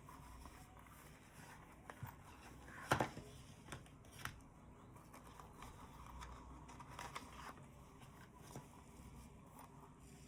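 Quiet handling of packaging during an unboxing: scattered clicks and rustles, the loudest a sharp click about three seconds in.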